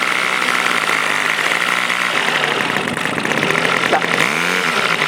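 Model airplane engine running steadily at low revs during engine tuning. Near the end the revs dip and climb back up.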